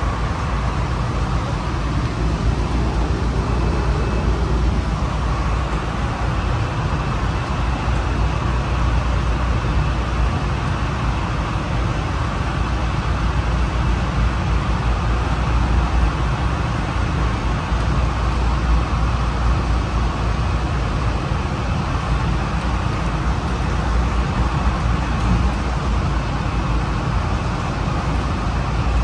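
Honolulu Skyline rail train running along its elevated guideway, heard from inside the passenger car: a steady low rumble of wheels and running gear with a faint high whine over it.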